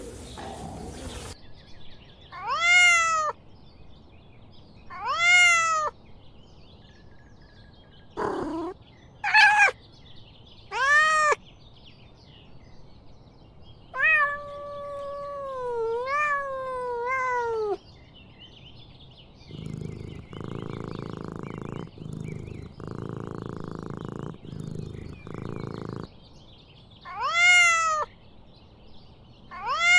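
Domestic cat meowing: a series of short meows, with one long drawn-out meow in the middle. Several seconds of steady low rumbling follow in three short stretches before two more meows near the end.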